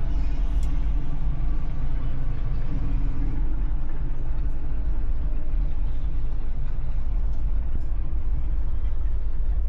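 Heavy-equipment engine running steadily at idle, a low, even rumble.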